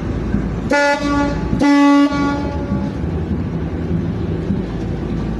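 Ship's horn sounding two short blasts, the second a little louder, over the steady low rumble of engines.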